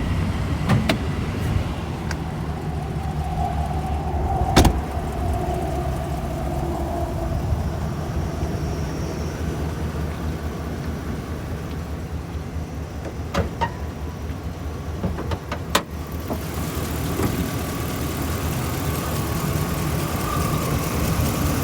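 The 6.0-litre gasoline V8 of a 2013 Chevrolet Silverado 2500HD idling steadily. Three sharp knocks come through it, one about four and a half seconds in and two close together near the middle. After the last one the engine sounds brighter and fuller.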